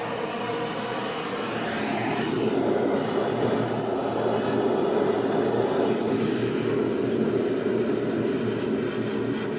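Gas burner flame making a steady rushing roar while heating silver for casting. It starts abruptly just before and slowly grows a little louder.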